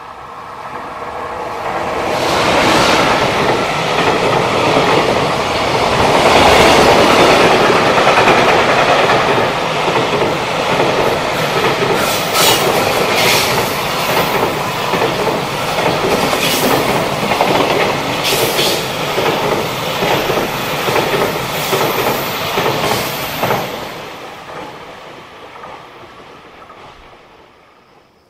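EF210 electric locomotive hauling a long container freight train, approaching and passing close by: a heavy steady rumble with rhythmic clickety-clack of the wagons' wheels, and several brief high-pitched wheel screeches in the middle. The sound builds over the first few seconds and fades away near the end as the last wagons go.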